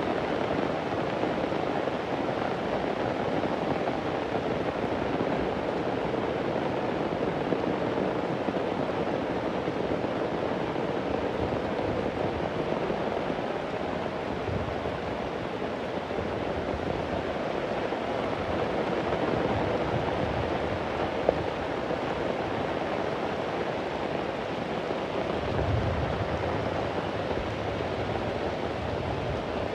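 Steady heavy rain, a dense even hiss, with a low rumble of distant thunder swelling near the end and a fainter one about halfway through. One sharp tick stands out about two-thirds of the way in.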